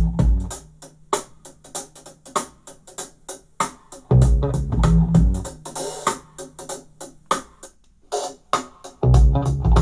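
A music track playing through a portable Bluetooth speaker: quick plucked and keyboard notes over a beat, with heavy bass hits at the start, about four seconds in, and again near the end.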